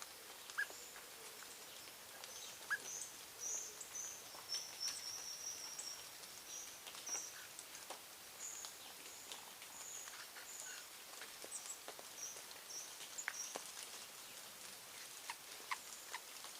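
A bird giving a long run of short, thin, high-pitched calls, with scattered faint clicks and taps.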